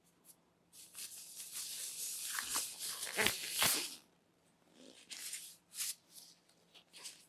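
Phone box packaging being handled and torn open: a long scratchy rustle with two sharp clicks near the middle, then a few shorter rustles.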